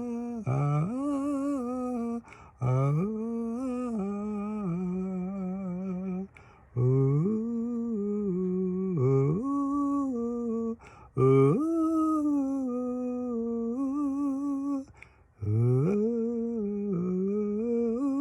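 A man singing unaccompanied, holding a string of long drawn-out "oh" notes with vibrato. Each note scoops up in pitch at its start, with short breaths between them.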